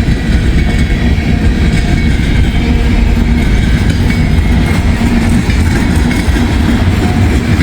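Long freight train of tank cars rolling past close by: a steady loud rumble of steel wheels on the rails.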